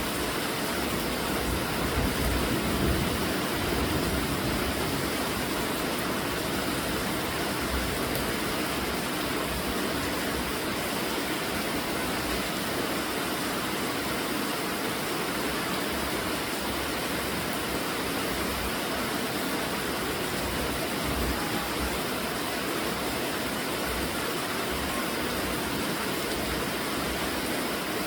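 Steady rainfall: an even, unbroken hiss of rain, slightly louder a few seconds in.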